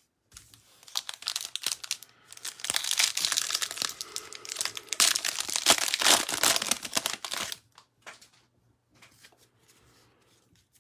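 Wrapper of a 2021 Panini Chronicles baseball hobby pack being torn open and crinkled by hand: a run of sharp crackling and tearing, loudest in the middle, then dying away to faint rustles from about eight seconds in as the cards are handled.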